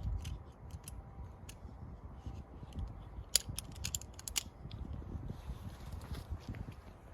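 A scatter of short, sharp clicks and ticks, densest in a quick run around the middle, over a steady low rumble.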